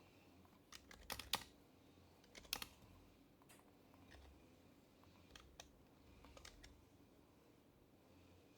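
Faint, sparse keystrokes on an HHKB Professional HYBRID Type-S keyboard with silenced Topre switches: a quick run of several strokes about a second in, a couple more at about two and a half seconds, then scattered single presses.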